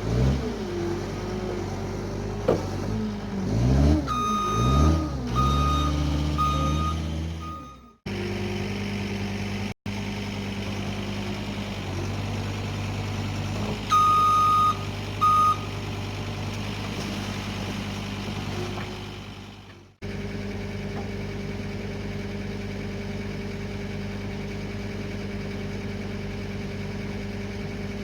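John Deere 326D skid steer loader working a sand pile: its diesel engine revs up and down under load while scooping, and its reversing alarm beeps repeatedly. Later the engine runs steadily, with two more beeps.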